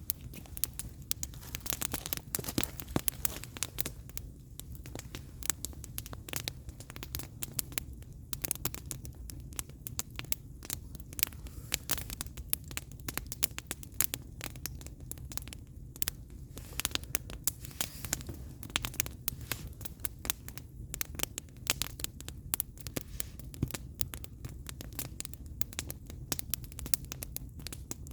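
Firewood burning in an open fire, crackling with frequent sharp pops over a steady low rumble.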